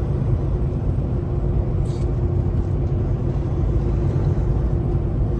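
Steady low engine and road rumble inside a Kenworth T680 semi-truck cab, with a steady hum under it.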